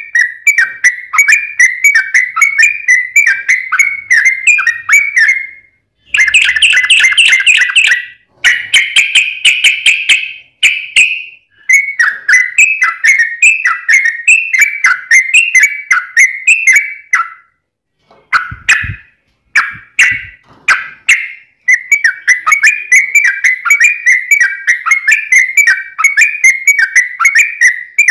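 Yellow-vented bulbul (trucuk) singing in long, fast runs of bubbling whistled notes ('ropel panjang'). The runs are separated by brief pauses, with a few isolated single notes about two-thirds of the way through.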